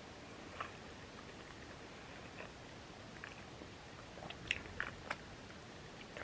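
A person chewing beef shawarma over fries: faint wet mouth sounds with scattered clicks, and a few sharper smacks bunched about four and a half to five seconds in.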